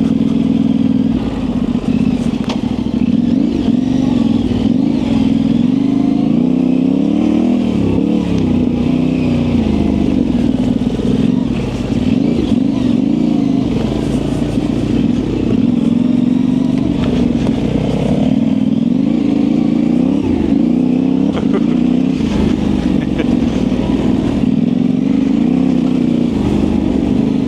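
Yamaha Ténéré 700's parallel-twin engine through an aftermarket high exhaust, ridden off-road with the throttle constantly opened and closed, so the engine note keeps rising and falling. Scattered clatter and knocks come from the bike over rough ground.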